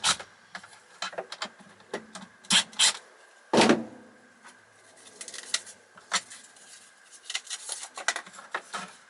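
Irregular clicks, knocks and rattles of plastic parts being handled as the switch panel is worked out of a vacuum cleaner's casing, with one heavier knock about three and a half seconds in. A faint steady high tone sits underneath.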